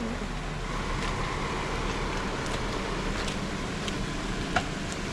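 Jeep engine running steadily as it crawls slowly over a rocky off-road obstacle, under an even hiss, with a few sharp clicks, the loudest about four and a half seconds in.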